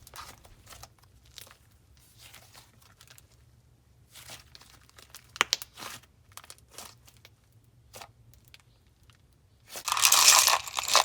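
Slime being squished and stretched by hand: scattered soft clicks and crackles, then a louder run of dense crackling near the end.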